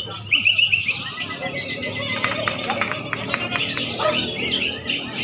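Many caged songbirds singing at once in a competition, a dense mix of overlapping chirps, whistles and trills, with a run of sharp rapid notes in the middle.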